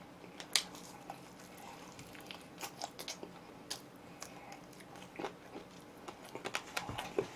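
Soft, scattered mouth sounds of chewing and biting oven-roasted chicken: small crunches and wet clicks at irregular moments.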